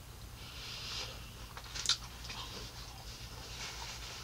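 Faint close-up mouth sounds of a person chewing a mouthful of pizza, with one sharp smacking click about two seconds in.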